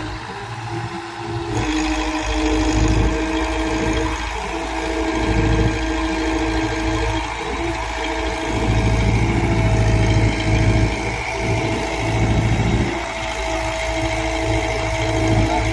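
Heavy vehicle diesel engine running steadily, growing louder about a second and a half in.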